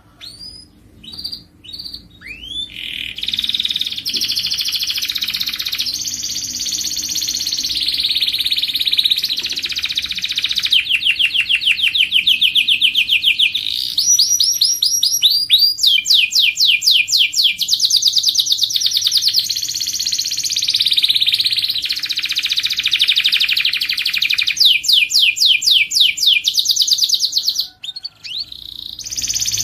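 Canary singing a long song: a few separate chirps at first, then continuous rolling trills and rapid runs of repeated notes. It breaks off briefly near the end and starts again.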